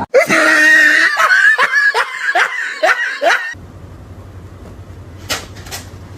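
A person laughing hard in a quick run of short falling "ha" bursts, about two a second. It cuts off after about three and a half seconds, leaving a low steady hum with two brief sharp sounds.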